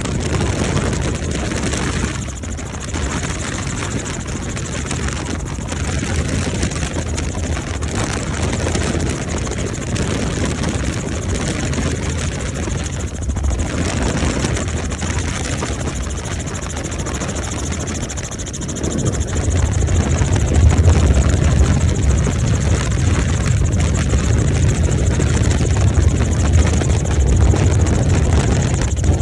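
Helicopter in flight, heard from inside the cabin: a steady rotor and engine drone that gets louder and deeper about two-thirds of the way through.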